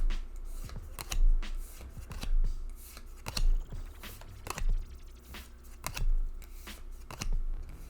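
Pokémon trading cards being slid one at a time from the back of a freshly opened booster pack to the front, each card making a short crisp snap about once every second or so.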